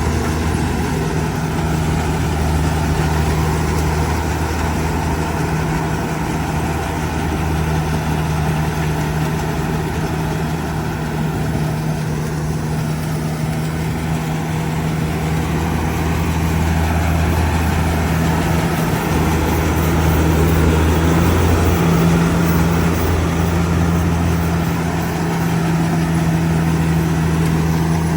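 Kubota DC70G Plus combine harvester's diesel engine running steadily, with a slight rise in pitch about two-thirds of the way through.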